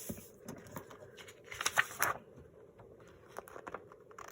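Paper pages being handled and pressed together on a tabletop: light rustles and small taps, with a louder rustle of paper about one and a half to two seconds in.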